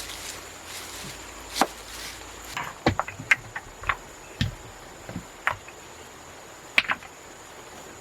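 Irregular sharp knocks and taps, some in quick pairs, like work with a tool, over a steady high-pitched drone.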